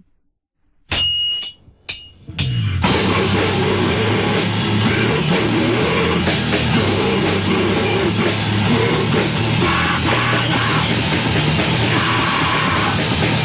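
Raw 1987 demo recording of heavy, distorted band music. After a brief silence come two short noisy bursts, then the full band with drums kicks in about two and a half seconds in and plays on at full loudness.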